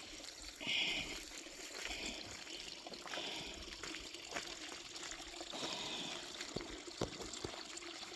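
Shallow water trickling steadily, with a few short squelching footsteps in wet mud.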